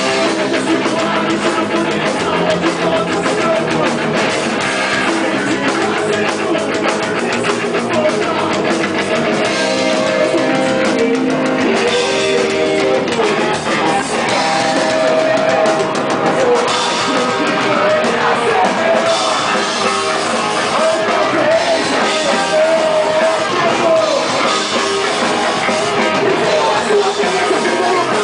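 Rock band playing live: electric guitars and a drum kit, with a singer's voice over them.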